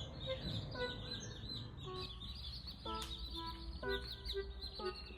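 Chicks peeping continuously in quick, high-pitched cheeps.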